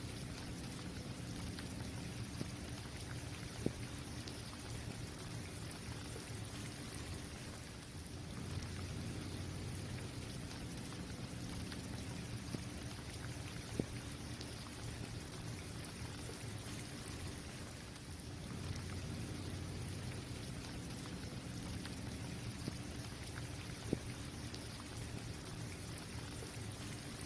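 Steady rain falling on a basketball court, with a sharp tap standing out about every ten seconds.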